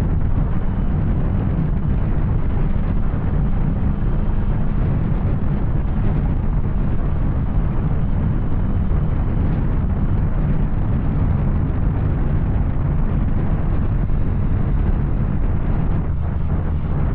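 Yamaha Tracer 900's three-cylinder engine running through an Arrow aftermarket exhaust at a steady cruising speed, with wind noise over the microphone.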